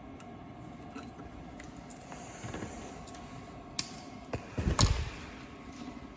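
Steady workshop hum, broken by a sharp click a little before four seconds and then a quick cluster of knocks ending in a low thump.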